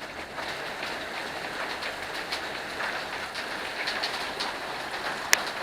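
Waterfall rushing steadily, with scattered small ticks and one sharp tap about five seconds in.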